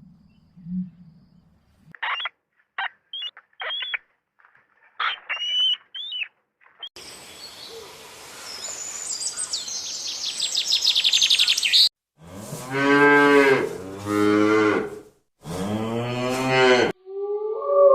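A cow mooing, three long calls in the last third. Before the moos come short high chirps, then a rising hiss with rapid high-pitched chirping from other animals.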